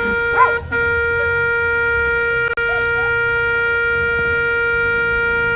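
A loud, steady horn-like tone held at one unchanging pitch.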